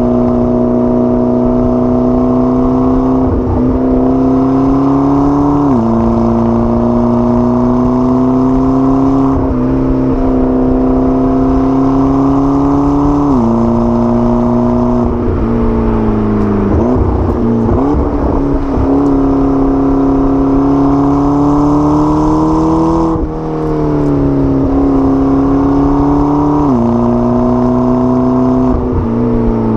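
McLaren 12C's twin-turbo V8 under way, its pitch climbing slowly in each gear and dropping sharply at each of several gear changes. A little past the middle the pitch sags and wavers for a few seconds before it picks up again.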